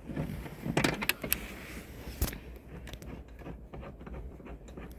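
Hand tools clicking and knocking on metal as a fastener is worked by hand: a quick run of sharp clicks about a second in, one louder knock a little after two seconds, then faint scattered ticks.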